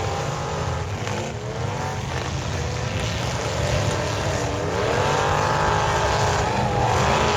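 Demolition derby car engines running and revving over a steady low rumble, their pitch rising and falling several times as the drivers rev up, about a second in, near five seconds, and near the end.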